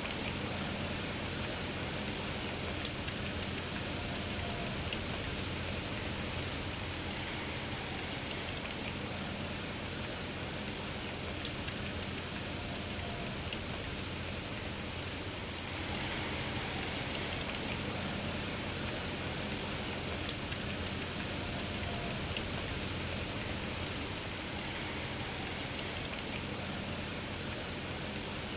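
Steady rain falling, an even hiss of many drops. Three single drops hit sharply and louder, about nine seconds apart.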